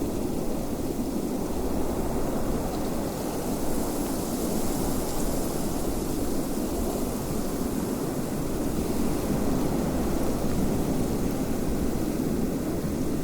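Wind blowing steadily, a dense low rush with a faint high hiss above it.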